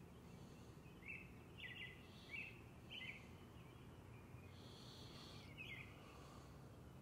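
Faint bird chirps, about five short notes spaced a second or so apart, over a quiet steady background hiss.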